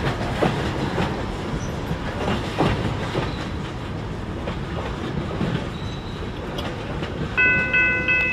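Freight train cars rolling along the track with a steady rumble and irregular clacks from the wheels. About seven seconds in, a grade-crossing bell ringing in a rapid repeating pattern becomes loud.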